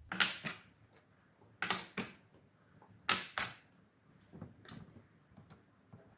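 Sharp knocks of hard objects striking, in three quick pairs about a second and a half apart, then several fainter taps.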